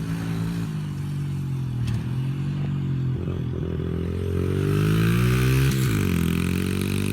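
Dirt bike engine running and revving, its pitch falling and rising several times; it climbs to its highest and loudest about five to six seconds in, then drops sharply.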